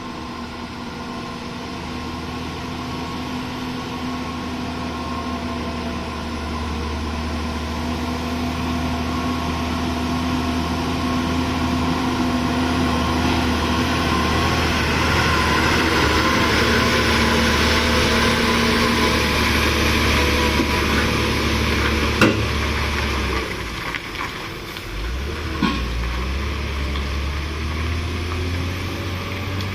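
Diesel engine of a heavy 14-wheeler truck running steadily and growing louder over the first twenty seconds or so. A sharp click comes about 22 s in. The low drone then dips and changes pitch for a couple of seconds, with another click, before settling back.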